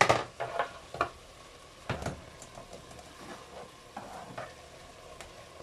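Meat sizzling in a multicooker bowl as chopped pickled cucumbers are added and stirred in with a plastic spatula, with a few sharp knocks in the first two seconds and softer scraping later.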